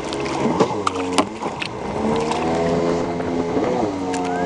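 Motorboat engine running close by, its note dipping and rising again a couple of times, with a few sharp knocks over it.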